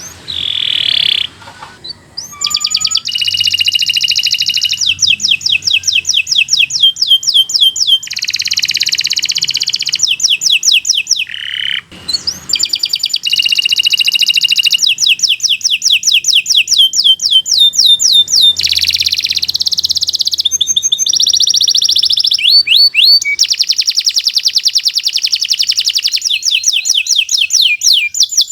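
Domestic canary singing a long, continuous song of fast rolling trills and rapidly repeated notes, high-pitched, with short breaks about two seconds in and near the middle.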